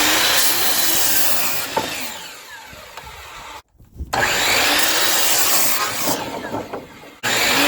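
Electric power saw cutting wooden boards, several cuts in a row: each starts loud and winds down, and the sound breaks off sharply between them, about three and a half seconds in and again near the end.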